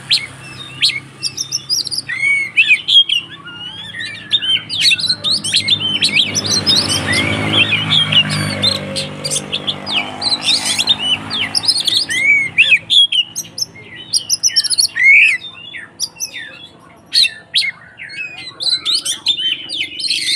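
Oriental magpie-robin (kacer) singing in its agitated, fighting 'konslet' style: a fast, unbroken jumble of sharp chirps, whistled up-and-down glides and harsh notes. A low rumble swells underneath in the middle.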